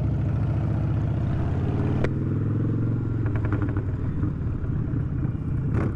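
Motorcycle engine running steadily at low revs, with a single sharp click about two seconds in.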